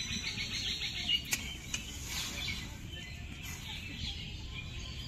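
Small birds chirping: a quick run of high chirps in the first second, then scattered calls, over a low steady background noise. Two sharp clicks sound a little after the first second.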